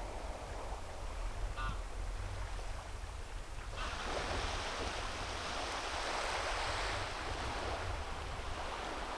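Sea waves washing onto a shore, with a wave surging in suddenly about four seconds in and running on for about three seconds. Wind rumbles on the microphone underneath.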